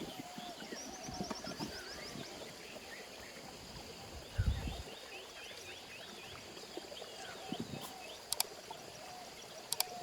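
Birds chirping and calling outdoors, with a repeated short call and quick trills. A dull thump comes about halfway through, and a few sharp clicks follow near the end.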